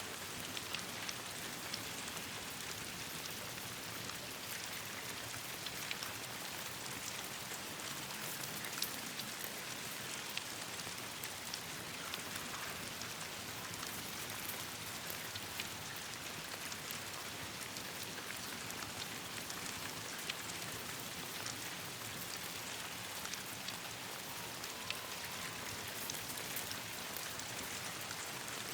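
Steady rain falling, an even hiss with many small sharp ticks and pops scattered throughout.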